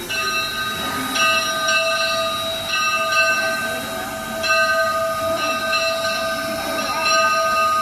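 Steam locomotive whistle, presumably on the H.K. Porter 0-6-0T tank switcher, blowing one long, steady blast that starts about a second in, its upper notes cutting in and out, over a hiss of steam.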